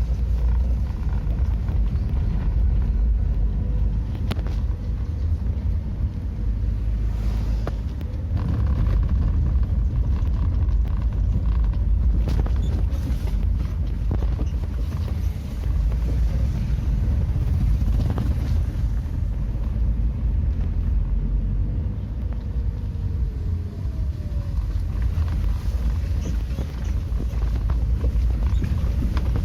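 Heavy truck's engine running steadily with a low-pitched drone, with a few brief knocks now and then.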